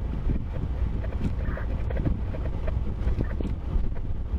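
A vehicle driving, giving a steady low rumble.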